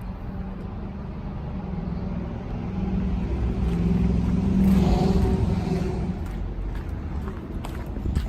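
Caterpillar C7 diesel engine of a 2006 Blue Bird Vision school bus running as the bus drives past, growing louder to a peak about halfway through and then fading.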